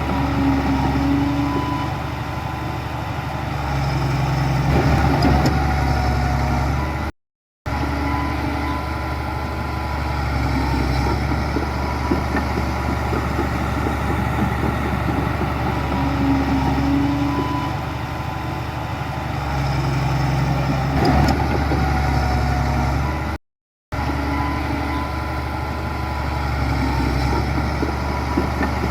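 Heavy diesel engine of earthmoving machinery running steadily, with slight rises and falls in engine load. The sound cuts out completely for about half a second twice.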